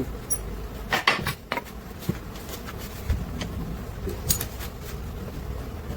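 Sharp metallic clinks and knocks of hand tools working on a diesel engine being dismantled, a cluster about a second in and another about four seconds in, over a steady low hum.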